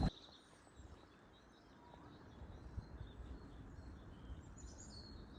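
Faint outdoor ambience with a low background hum and a few distant birds chirping briefly.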